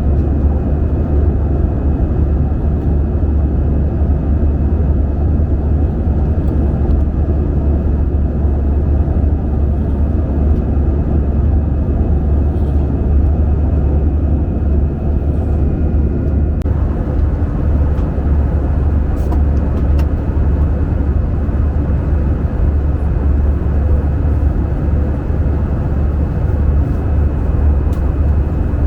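Steady cabin noise inside an Airbus A320 airliner: a constant low rumble of the engines and airflow with a faint high whine over it. About two-thirds of the way through, the higher part of the noise shifts slightly and stays steady after.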